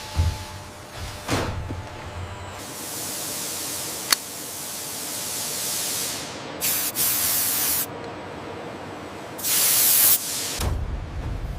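Several bursts of hissing: a long hiss from about three to six seconds in, two short ones near seven seconds and a loud one near ten seconds. There are two thuds near the start and a sharp click about four seconds in.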